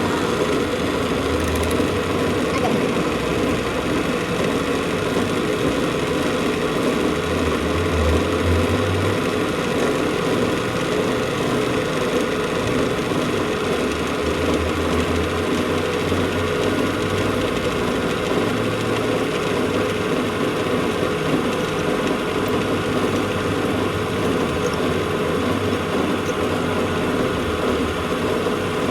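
A machine running steadily, a constant hum that does not stop or change.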